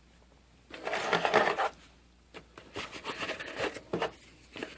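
Tools and a padded tech bag being handled: a second-long rustle about a second in, then light clicks and knocks as items are put away.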